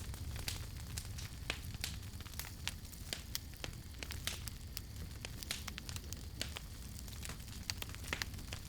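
Wood campfire crackling: irregular sharp pops and snaps, several a second, over a low steady rumble of the burning fire.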